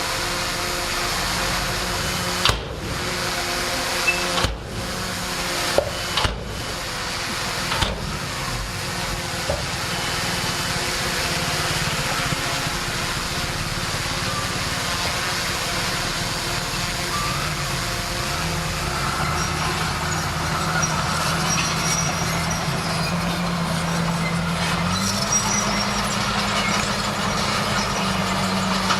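Bulldozer's diesel engine running steadily under work, with a few sharp clanks in the first eight seconds; the engine note wavers around the middle and steps up in pitch near the end as it revs up.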